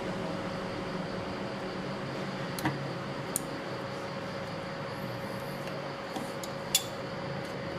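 Steady hum and hiss with a few sharp clicks or taps over it, the loudest near the end.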